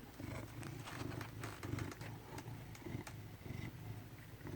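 Domestic cat purring in a low, pulsing rumble, with scattered light clicks; the cat is stressed, and stressed cats purr.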